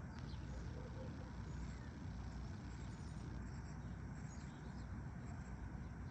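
Steady low outdoor rumble with faint, scattered high bird chirps.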